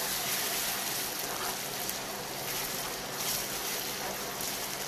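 Sliced aromatics and belacan-tamarind paste sizzling steadily in hot oil with a little water in a stainless steel wok, stirred with a spatula.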